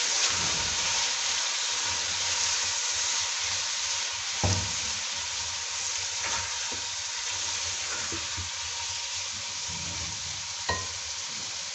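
Chicken, tomatoes, onions and spices sizzling in hot oil in a nonstick pot while a spatula stirs them, the sizzle easing slightly. Two sharp knocks sound, about four seconds in and near the end.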